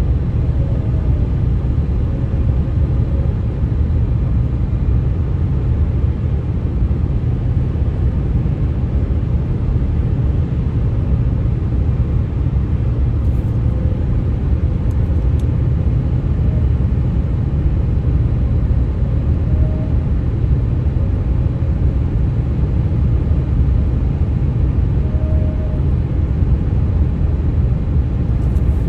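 Steady low rumble of tyres on highway pavement while driving, with a few faint, brief humming tones now and then: the eerie 'ghost noises' that the road surface makes.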